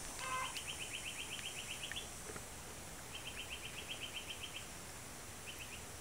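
A bird giving rapid trills of short chirps, about nine notes a second, in two runs of about a second and a half each and a brief third burst near the end.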